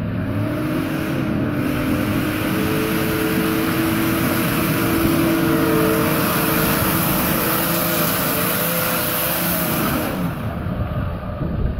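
A four-wheel-drive's engine revving hard and holding high revs under load as it climbs a muddy track. The pitch wavers in the last few seconds, then drops away at about 10 seconds.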